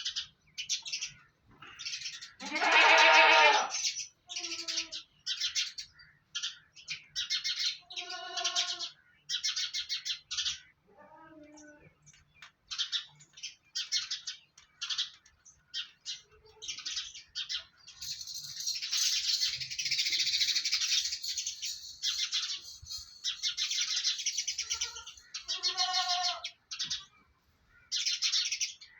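Small birds chirping in quick, repeated high calls, at times almost continuous. Three louder, drawn-out animal calls stand out: about 3 seconds in, about 8 seconds in, and near the end.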